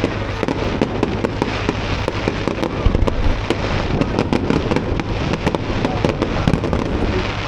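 Aerial fireworks going off in a display: a dense run of crackles and bangs over a low rumble.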